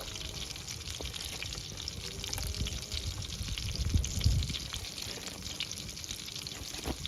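Wood fire crackling and hissing under the cooking pots, with many small snaps. A low rumble swells about four seconds in.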